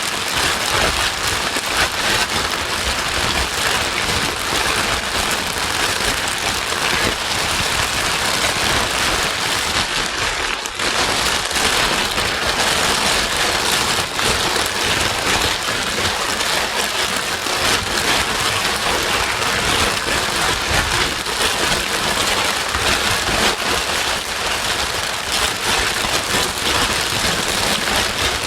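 Steady, loud white noise with the hiss and patter of rain, a sleep-soothing track for a crying baby. It dips briefly about ten seconds in.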